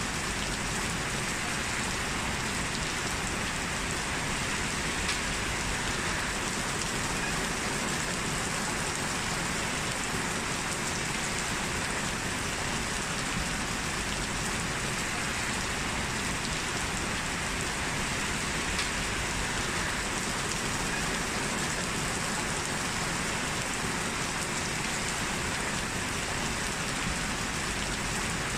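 Steady rain falling on a surface, an even hiss with scattered drop ticks throughout.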